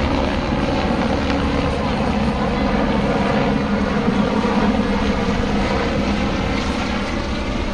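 Helicopter flying overhead, its rotor and engine running steadily as it circles before landing.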